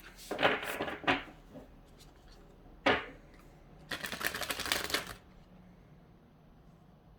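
A deck of tarot cards being shuffled by hand in two rustling bursts, with a single sharp slap of the cards about three seconds in.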